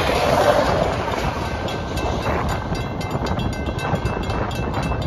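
Tail end of a freight train of autorack cars rolling past on the rails, its rumble fading as it clears the crossing. From about halfway through, a railroad crossing bell rings steadily at about three strikes a second.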